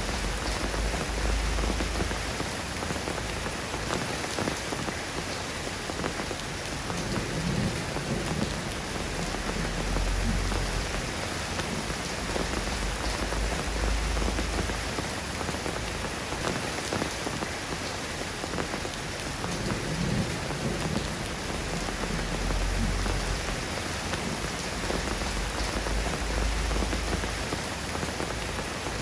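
Steady rain falling and pattering on surfaces, an even hiss of drops. Low rumbles swell and fade underneath it several times.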